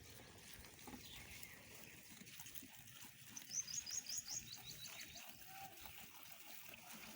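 Faint rustling and chewing of a goat browsing on leaves, with a bird's quick run of chirps, first higher and then lower, about three and a half seconds in.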